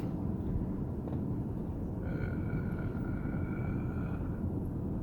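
Pickup truck driving, a steady low engine and road rumble heard from inside the cab. A faint high whine joins about two seconds in and fades out near the end.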